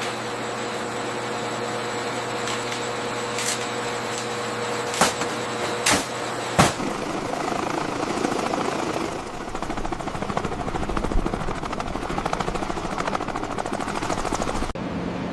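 Steady mechanical drone with several held tones and three sharp clicks in the middle. It turns into a rapid fluttering throb in the second half, which changes abruptly shortly before the end.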